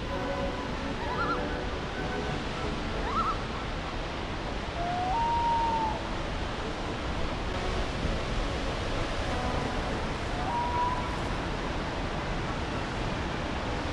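Steady outdoor rushing noise, with a bird calling over it: short rising chirps near the start, then two longer whistles that rise and level off, about five and ten seconds in.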